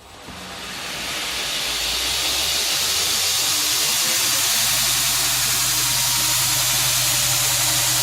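A newly built 2x72 belt grinder, its motor driven at 50 Hz, spinning up over about two seconds and then running steadily with a loud belt hiss and a low hum. It runs smoothly with very little vibration.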